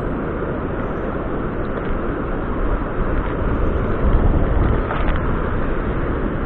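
Rough surf on an open ocean beach after a typhoon: a steady rush of breaking waves and wind, heaviest in the low rumble, swelling a little about four seconds in.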